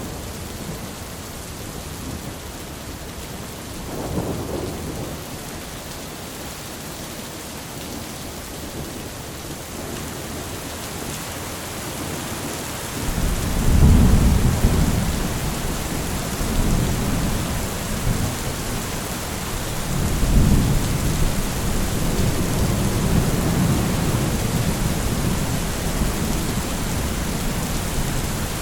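Steady rain with rolling thunder: a brief rumble about four seconds in, then a long, heavier thunder roll starts around thirteen seconds and swells again near twenty seconds while the rain continues.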